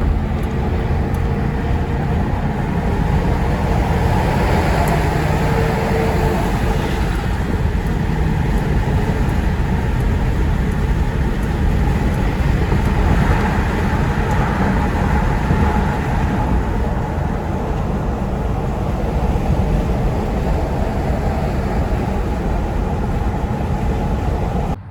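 Steady rumble of a car being driven, with road and engine noise heard from inside the cabin.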